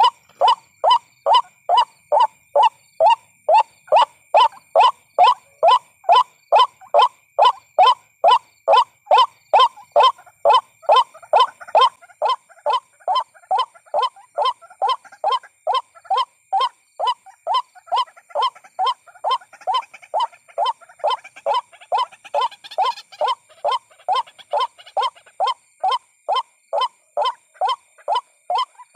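White-breasted waterhen calls repeated monotonously at about two and a half a second, a recorded lure call for drawing waterhens in to a trap. The calls get a little quieter about twelve seconds in.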